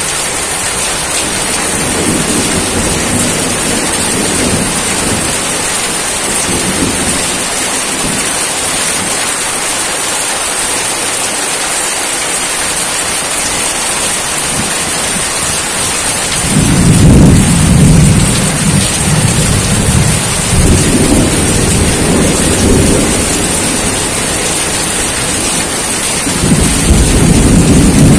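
Steady heavy rain hiss with rolls of thunder rumbling underneath, the strongest roll starting about two-thirds of the way through and another building near the end.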